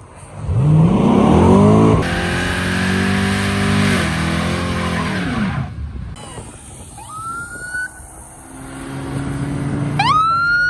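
A car's engine revving hard as it accelerates away: its pitch climbs quickly, holds, then falls off as it goes past. Near the end a shrill tone rises sharply and then holds.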